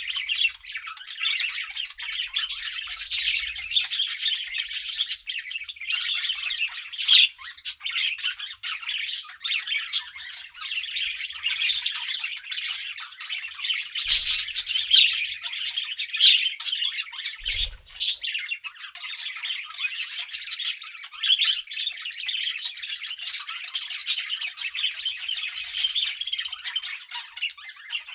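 Several budgerigars chirping and chattering without pause, a dense stream of short overlapping chirps and warbles. It is the chatter of relaxed, settled budgies.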